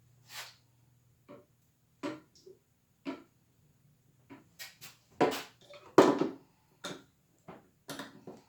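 Handling noise from tools and screws: a series of irregular knocks and clicks as things are picked up and set down, the loudest two just past the middle.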